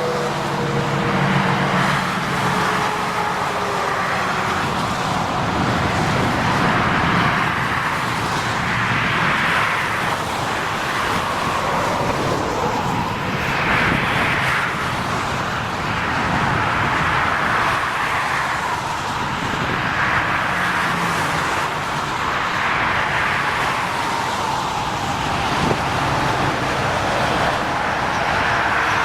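Road traffic: a continuous run of vehicles passing, each swelling and fading over a few seconds.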